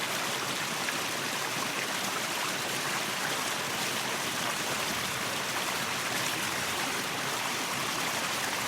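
Waterfall: water falling and rushing in an even, steady hiss.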